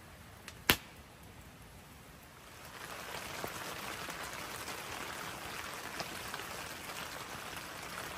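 Rain pattering, with many small drop ticks, growing louder about two and a half seconds in. A single sharp click comes under a second in.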